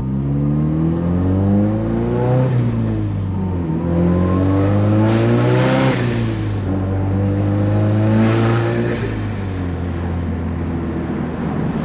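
Mazdaspeed 3's turbocharged 2.3-litre four-cylinder being revved three times, rising and falling in pitch. A rush of air from the HKS blow-off valve, its fins removed for more turbo flutter, comes as the revs drop the second and third time. The engine then settles to a steady run.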